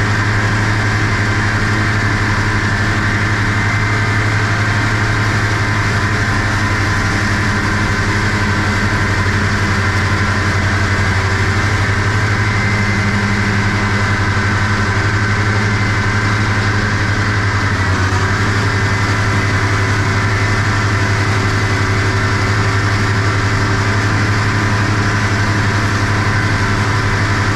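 Tractor engine running steadily under load while pulling a grass mower through silage, a constant loud drone with a slight change in tone about two-thirds of the way through.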